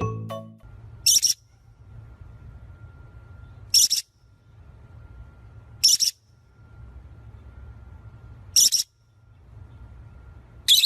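A bird's short, shrill calls, repeated five times about every two to three seconds, over a low steady hum.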